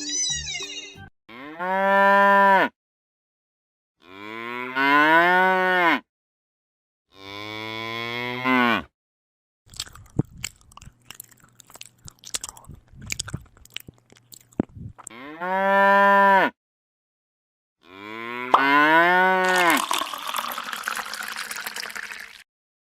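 Cow mooing: five long moos, each rising and then falling in pitch. Between the second-to-last moos comes a stretch of irregular clicking and rattling, and the last moo runs into a hiss near the end.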